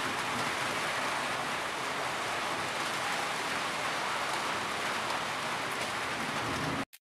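Steady rain falling, cutting off suddenly near the end.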